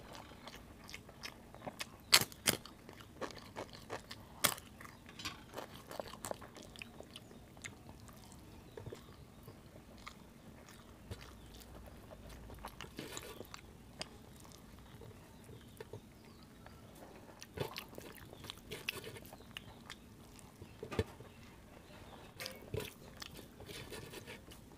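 Close-miked mouth sounds of eating rice and curry: wet chewing and lip smacks coming as irregular sharp clicks, the loudest a few seconds in. Fingers mixing and scooping the rice on a steel plate can be heard between mouthfuls.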